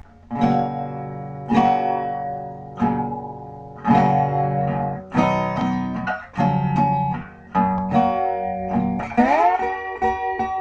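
Guitar music: plucked chords ringing out about once a second, then quicker single notes, with a sliding rise in pitch about nine seconds in.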